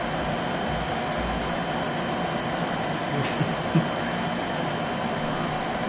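Steady background hum with two faint short clicks a little past the middle.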